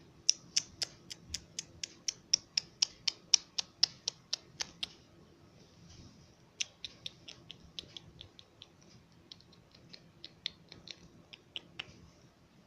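Plastic toy dolls tapped along a hard surface by hand: a quick run of sharp clicks, about four a second for the first five seconds, then after a pause sparser, irregular clicks.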